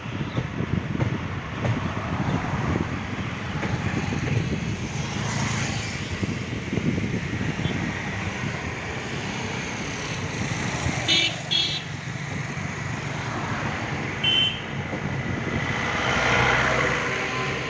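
Steady rumble of road traffic with short horn toots: two quick beeps about eleven seconds in and another a few seconds later.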